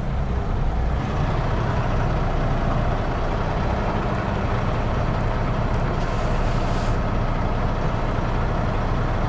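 Semi-truck diesel engine running at low speed while the tractor-trailer is reversed, a steady low rumble heard from inside the cab. A brief hiss comes about six seconds in.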